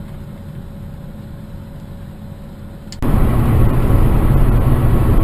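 Steady car engine and road noise from inside a moving vehicle. About three seconds in it cuts abruptly to a louder, heavier rumble.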